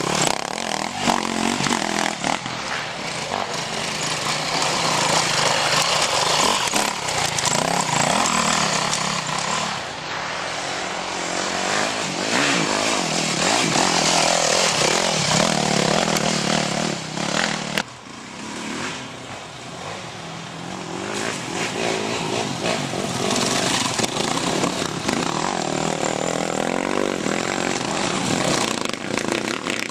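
Dirt bikes racing: enduro and motocross motorcycle engines revving up and down as they pass, with a sudden drop in loudness about two thirds of the way through.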